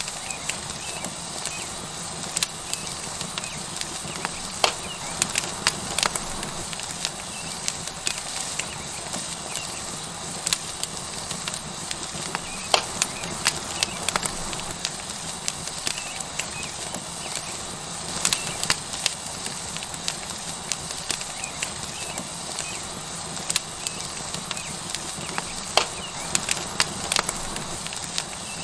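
Tomahawk steak sizzling on a hot stone over a wood fire: a steady hiss with irregular sharp crackles and pops from the burning wood.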